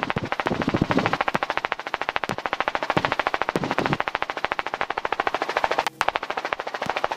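Helicopter main rotor chop: a fast, even beat of the blades, about a dozen pulses a second, during the landing approach.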